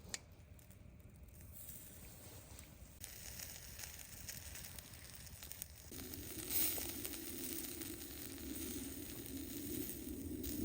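Food sizzling over a charcoal shichirin grill, with a few faint crackles. The sound gets fuller and louder about six seconds in.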